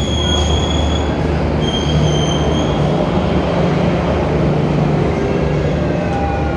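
Passenger train rolling slowly past the platform with a steady low rumble and hum, its wheels squealing on the rails twice, each squeal a high thin tone lasting about a second.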